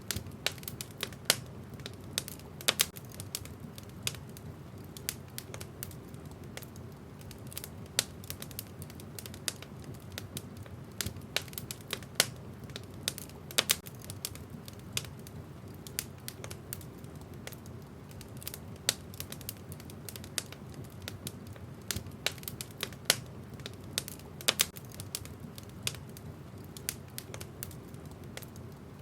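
Wood fire burning in a fireplace: a steady low rumble of flames with irregular crackles and pops from the burning logs, several a second, some much sharper and louder than the rest.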